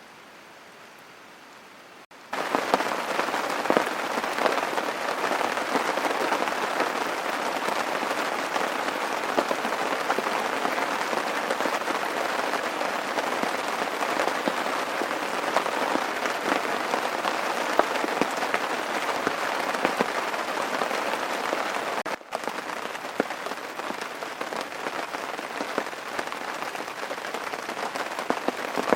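Rain falling steadily, a dense patter of many small drops. It comes in suddenly about two seconds in after a fainter hiss, with a brief dip about three quarters of the way through.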